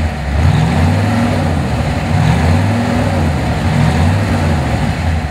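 1955 Ford Thunderbird's 292 cubic-inch V8 running, heard from behind the car. Its low exhaust note swells and eases several times.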